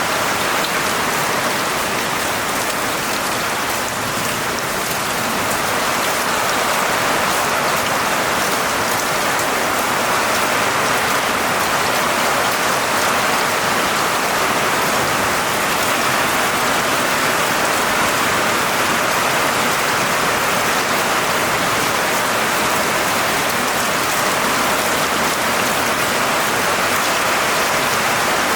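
Steady rainfall, a dense even hiss of drops hitting a surface, with no thunder.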